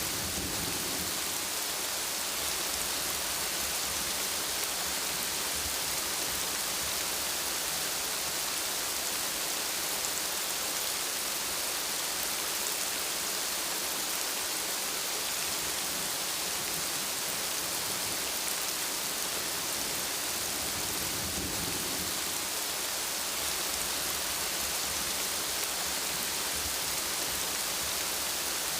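Steady heavy rainfall hissing and pattering, with low rumbles of thunder near the start and again about three quarters of the way through.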